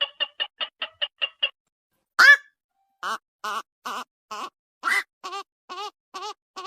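Black-crowned night heron calls: a quick run of short clipped notes, then one loud harsh squawk about two seconds in, followed by a steady series of short croaks, about two a second. A playback recording used as a lure for trapping night birds.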